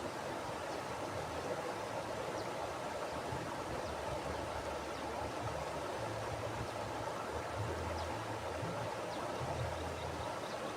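Mountain river flowing: a steady rush of water, with a low rumble underneath that swells and fades.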